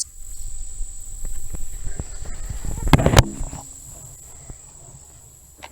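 Surron electric dirt bike moving off along a forest trail: a low rumble of tyres and chassis with scattered rattles and knocks, a few heavy knocks about three seconds in, then settling quieter. A steady high insect drone runs underneath.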